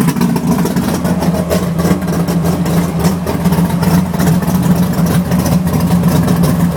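Ford Mustang exhaust with new mufflers, the engine idling steadily at a constant low note.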